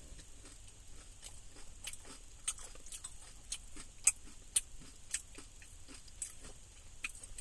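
A person chewing a mouthful of tater tots topped with nacho cheese and chili close to the microphone: irregular soft mouth clicks and smacks, one or two a second, with a few sharper ones.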